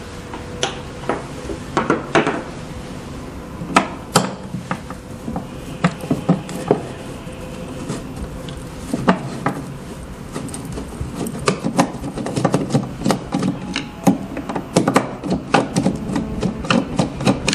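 Hand tools clicking, knocking and scraping on the casing of a sublimation heat press as it is taken apart to remove its screws and cover. The knocks are scattered at first and turn into quick, busy clicking in the second half.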